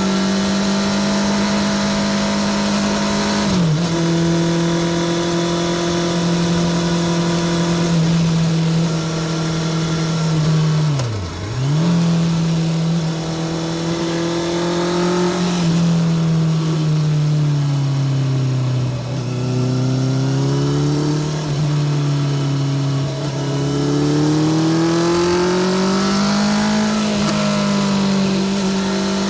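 Honda CBR650R's inline-four through a Spark full titanium exhaust while riding: a steady engine note with short dips at gear changes, one sharp drop and recovery about a third of the way through, then revs sinking slowly and climbing again near the end.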